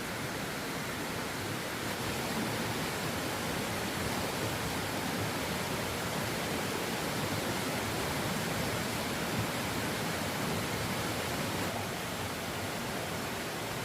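A steady, even rushing noise with no strokes or pitch to it.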